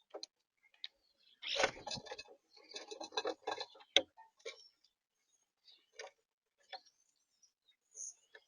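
Animals feeding at a backyard seed-and-nut feeder: scattered clicks and taps. About a second and a half in there is a brief dull thump, followed by a couple of seconds of busy rustling and knocking and then a sharp click.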